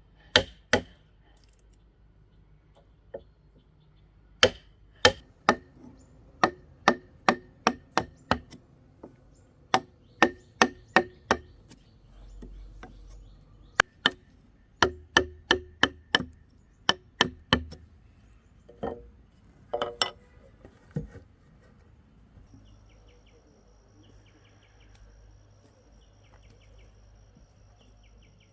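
A hand tool striking repeatedly, each blow sharp and ringing, in runs of three to six blows at about two or three a second with short pauses between runs, the strikes thinning out and stopping about two-thirds of the way in. Insect chirring, steady and high, starts soon after.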